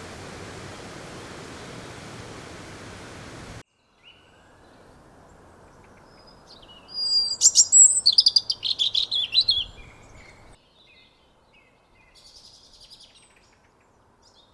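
A steady outdoor hiss that cuts off suddenly after about three and a half seconds, then a bird calling loudly in a quick run of high chirps for about three seconds, with fainter chirps near the end.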